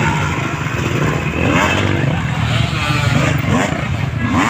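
Motocross dirt bike engines running and revving up and down as the bikes race around the track.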